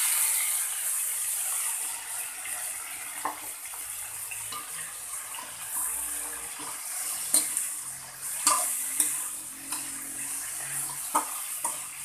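Pork slices sizzling in hot oil in a wok with onions and garlic, the sizzle loudest just as they are tipped in. A metal spatula clinks and scrapes against the wok several times as the meat is stirred.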